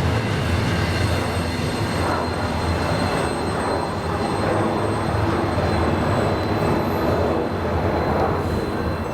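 Freight train rolling past with a loud, steady rumble of wheels on rails.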